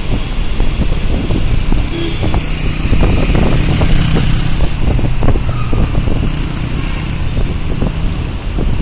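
Steady road noise of a vehicle on the move in traffic, a low rumble with wind buffeting and crackling on the microphone.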